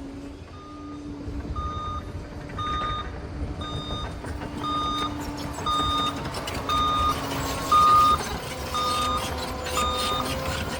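Reversing alarm of a Liebherr PR 746 crawler dozer beeping about once a second as the machine backs up. Its diesel engine runs underneath as a steady low rumble.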